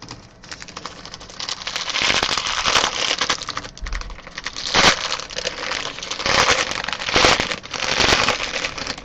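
Plastic trading-card pack wrapper crinkling and crackling as it is torn open and handled, in a run of irregular sharp crackles.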